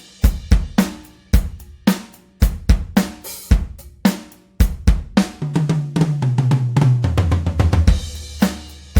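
Sampled acoustic drum kit from Toontrack EZdrummer 3 playing a beat with kick, snare, hi-hat and cymbals. About halfway through comes a quick fill down the toms, stepping from high to low, and the beat resumes near the end.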